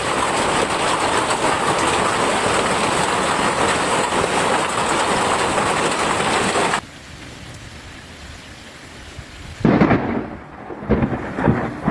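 Heavy rain pouring down as a loud, dense hiss, which cuts abruptly to a quieter patter of rain about seven seconds in. A loud crash of thunder comes near the end.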